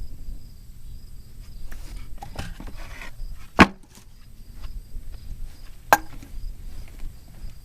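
Two sharp knocks about two seconds apart, the first the louder, with a few lighter knocks and scuffs just before them, over crickets chirping steadily.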